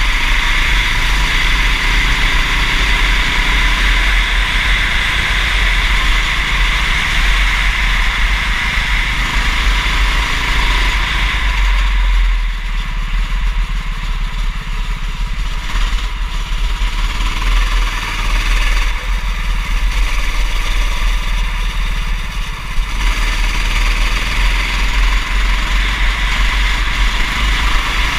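Go-kart engine running at race speed over a heavy low rumble, easing off twice partway through.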